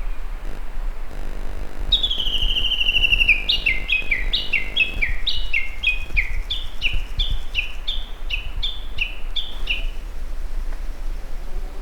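A songbird calling: a fast trill begins a couple of seconds in, then runs on into a long series of quick, falling two-note phrases, about two and a half a second, that stop a little before the end.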